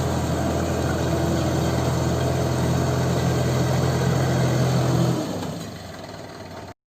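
Diesel tractor engine running steadily, with a low, even hum. About five seconds in, the sound drops away and fades out.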